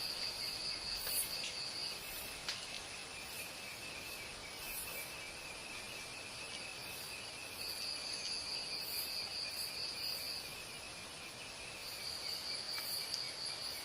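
Insect chorus: a steady high buzzing with a louder pulsed trill that sings in phrases of two to three seconds, stopping and starting again twice.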